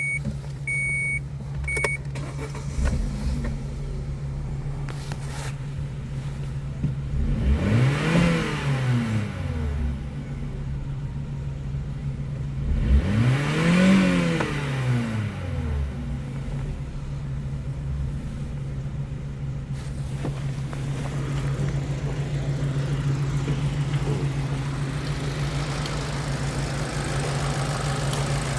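Opel Agila A's 1.2-litre Z12XEP four-cylinder petrol engine idling, revved up and let fall back twice, each rev lasting about two seconds. Three short beeps sound near the start.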